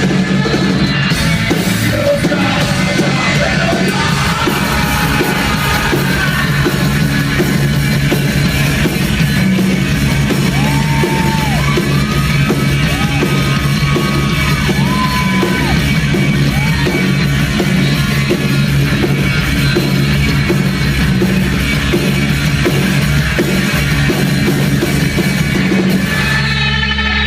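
Live heavy metal band playing loud, with yelled vocals over distorted guitars and drums; the song cuts off near the end.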